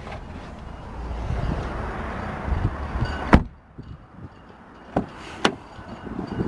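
A car door, on a 2019 Audi RS Q3 Sportback, shuts with one sharp thud about three seconds in, after shuffling and handling noise; the outside noise drops away at once, and two short clicks follow a couple of seconds later.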